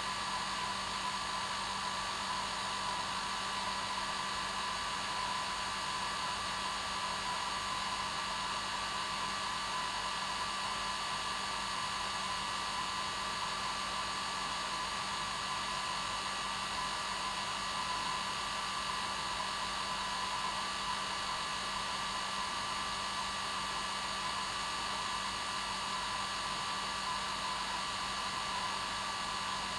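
Hair dryer running steadily: an even airy rush with a constant motor whine, no change in speed.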